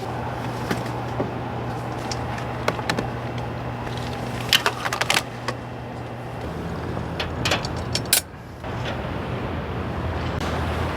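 Air mattress's built-in electric pump running with a steady hum as it inflates the mattress; its note changes about six and a half seconds in and drops away briefly around eight seconds. Several sharp clicks and knocks sound over it.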